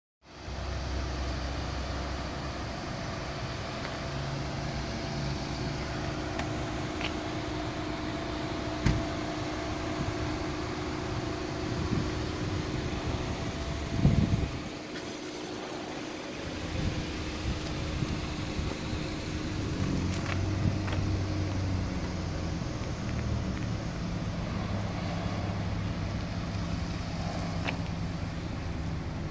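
A steady low engine hum, with two short knocks, one about nine seconds in and a louder one about fourteen seconds in.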